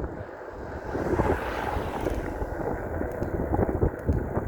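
Wind buffeting the microphone while riding, a low, uneven rumble, with a swell of rushing noise about a second in.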